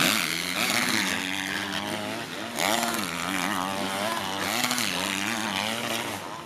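Motocross bike engines racing on the track, the engine pitch rising and falling again and again as the riders open and close the throttle.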